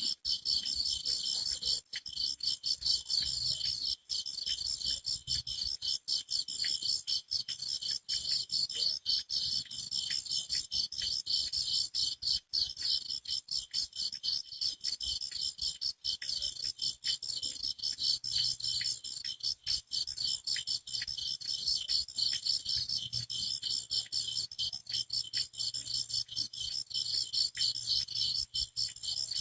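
A chorus of crickets chirping in dense, continuous high-pitched pulses.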